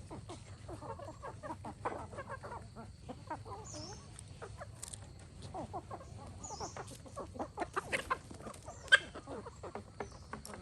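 A flock of free-range chickens clucking, with many short overlapping calls, and a sharp click near the end.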